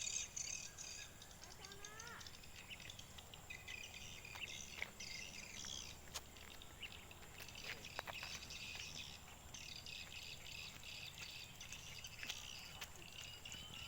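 Swiftlets twittering: many faint, short, high chirps overlapping continuously.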